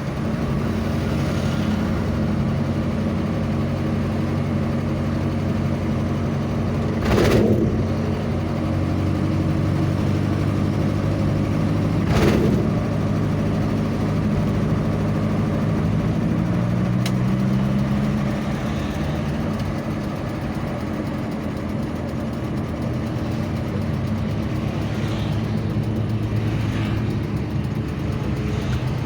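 Vehicle engine running steadily on the road, its pitch rising for a few seconds past the middle, with two brief whooshes about seven and twelve seconds in.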